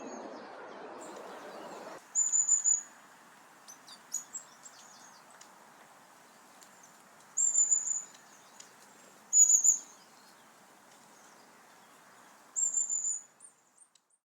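Long-tailed tits calling: five short bursts of very high, thin, rapidly repeated notes a few seconds apart, with fainter single high calls in between. A faint hiss fades out about two seconds in.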